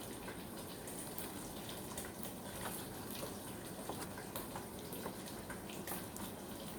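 Water running steadily as an even hiss, with a few faint light ticks.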